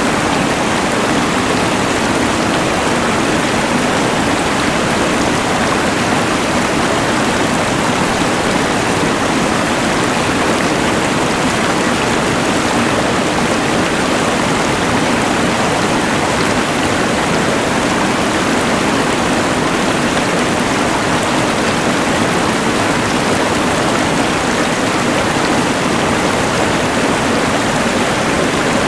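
Rushing mountain river, mixed with the even hiss of a LectroFan white noise machine, running steadily without a break.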